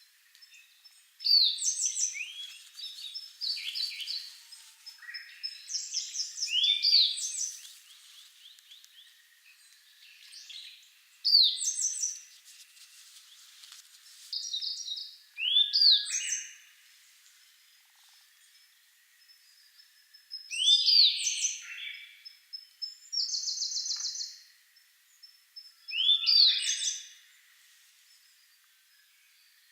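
A subadult Grey Bunting and a Siberian Blue Robin singing in turn. Short, high song phrases of sweeping whistles and quick trills come every few seconds, with quiet gaps between them.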